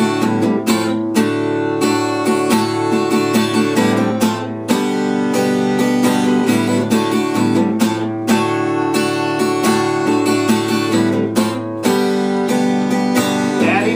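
Acoustic guitar strummed steadily in a country rhythm, an instrumental break between verses of the song.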